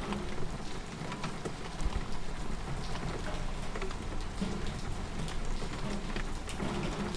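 Steady rain falling, with many separate drops ticking and pattering on a surface over a constant hiss and a low rumble.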